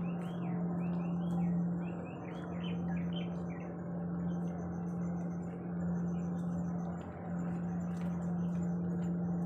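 Birds chirping in short repeated calls over a steady low hum, with faint high trills in the background.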